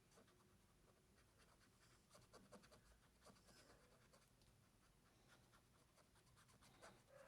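Faint scratching of a pen on paper in quick, short strokes as an area is shaded in black.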